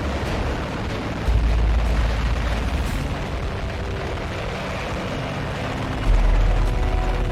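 Two heavy explosions, each a sudden deep boom followed by a long low rumble, the first about a second in and the second near the end.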